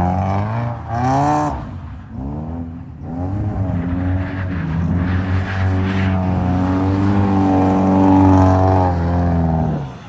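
Subaru Impreza's flat-four engine revving up and down under throttle. The revs climb about a second in, drop sharply near two seconds, then hold fairly steady before falling away near the end.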